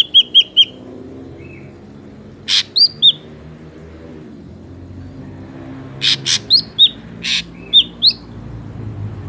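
Ashy drongo calling: bouts of quick, clear, down-slurred whistled notes mixed with short harsh rasping notes, coming three times a few seconds apart.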